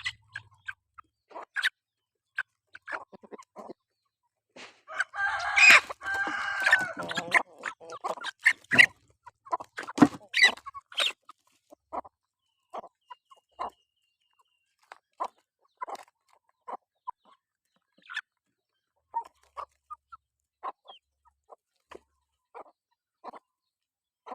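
Chickens clucking in short, scattered calls while foraging, with one long rooster crow about five seconds in.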